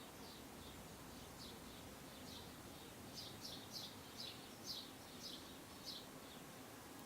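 A bird calling: a run of short, high chirps, each falling in pitch, about three a second and loudest in the middle, over a faint steady background hiss.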